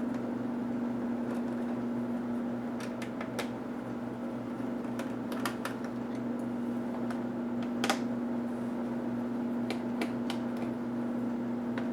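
Steady machine hum with scattered light clicks and taps of small plastic and metal laptop parts being handled during disassembly.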